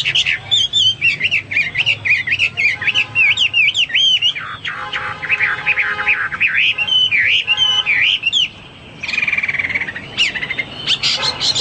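Hwamei (melodious laughingthrush) singing a loud, fast song of varied whistled notes sliding up and down, with a harsher, steadier note lasting about a second near the end.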